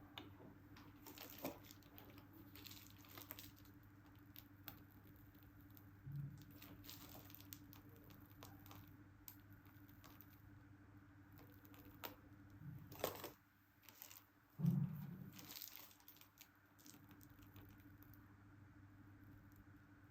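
Faint handling sounds of cake decorating: light rustling and crinkling with scattered small taps, and a soft thud about 15 seconds in.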